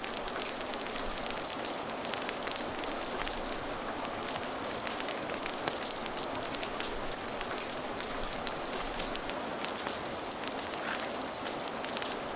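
Steady rain falling, layered with a crackling fire: a constant hiss of rain with many small, sharp crackles scattered through it.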